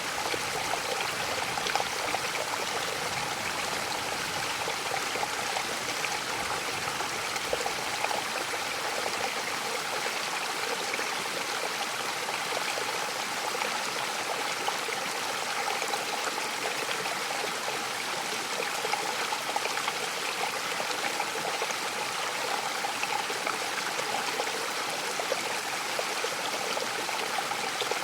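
Mountain waterfall: steady, even rush of falling and splashing water with no breaks.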